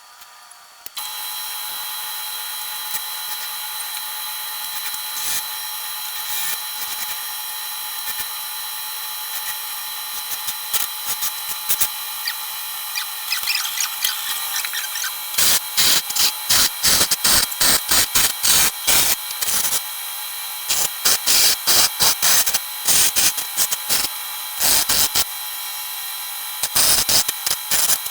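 A wood lathe's electric motor starts about a second in and runs with a steady whine. From about halfway on, a turning tool cuts into the spinning wood in loud, uneven scrapes.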